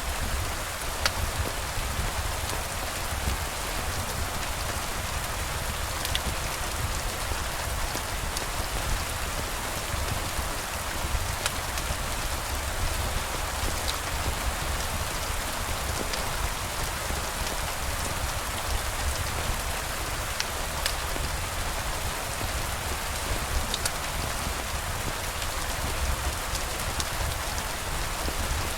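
Steady rain falling as an even hiss with a low rumble, broken by a few scattered sharp ticks.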